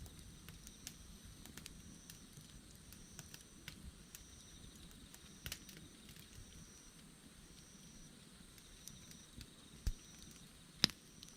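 Wood campfire crackling: scattered small snaps and pops, a low thud near the end, then one sharp, louder pop a moment later.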